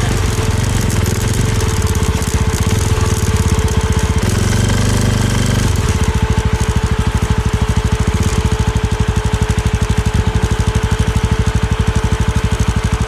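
Suzuki Thunder 250 motorcycle engine running. About six seconds in it settles into slower, evenly spaced low pulses, like the engine dropping back to idle.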